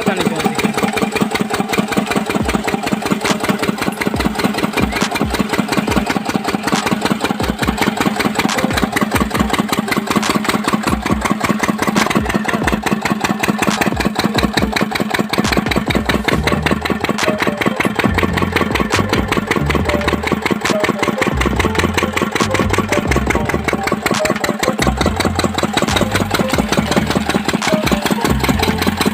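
Old Lister stationary diesel engine running steadily, with a fast, even beat of firing strokes.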